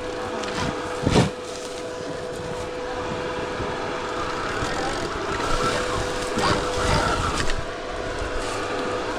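Stark Varg EX electric dirt bike riding off-road, its motor giving a steady whine over a noisy rush, with one loud knock about a second in.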